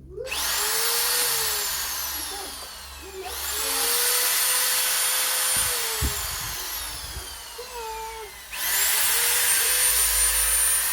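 Power drill run three times: each run starts sharply with a high whine, then falls slowly in pitch and loudness.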